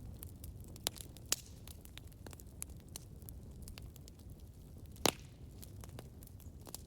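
Campfire burning with a low steady rumble and irregular crackles and pops, the loudest pop about five seconds in.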